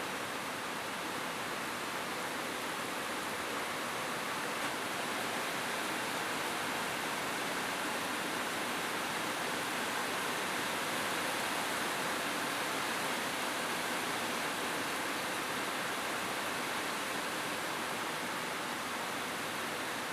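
Steady rain falling on a roof, an even hiss with no thunder.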